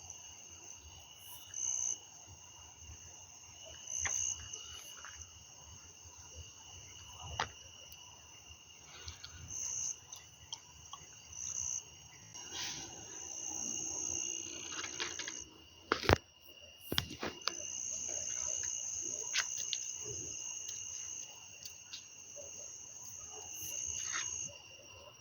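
Insects trilling: one steady high trill, and a higher trill that starts and stops in stretches of a second or more. A few sharp clicks sound over it, the loudest about 16 seconds in.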